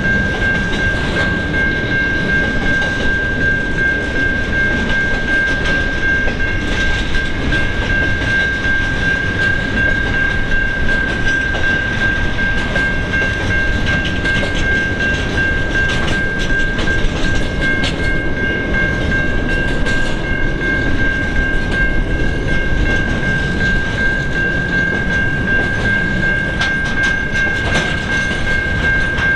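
Interstate freight train's wagons rolling past, wheels clicking over rail joints, with a steady high-pitched squeal held throughout.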